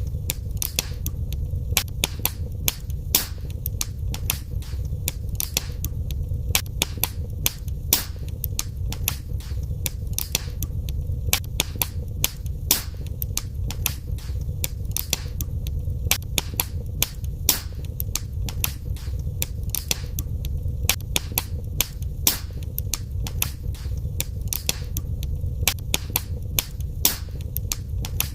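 Wood fire crackling in a fireplace: many sharp snaps and pops, several a second at irregular spacing, over a steady low rumble of the burning fire.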